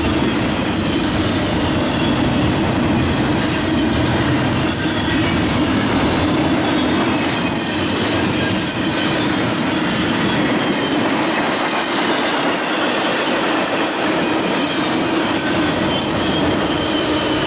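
Norfolk Southern double-stack container freight train cars rolling past, steady wheel-on-rail noise with clickety-clack over the rail joints and some high wheel squeal. The deepest rumble fades somewhat about halfway through.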